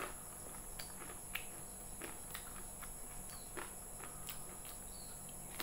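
A person chewing food with the mouth closed: soft, scattered mouth clicks over a faint steady hum.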